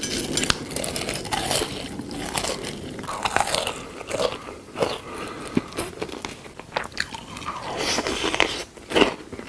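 Close-miked crunching bites and chewing of crispy chicken drumsticks, a scatter of short, irregular crunches.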